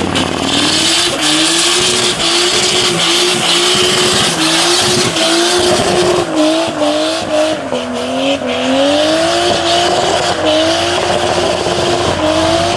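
V8 muscle car doing a burnout: the engine held at high revs, its pitch wavering up and down, over the steady hiss of spinning, squealing tyres.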